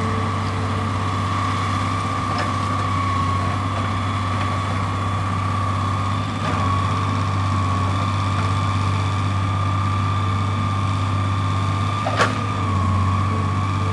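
Excavator's diesel engine running steadily, with a steady high whine over the low hum and one sharp knock about twelve seconds in.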